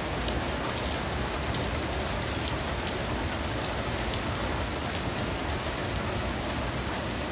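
Steady rain falling on the wet street and nearby surfaces, an even hiss with sharp little drop ticks here and there.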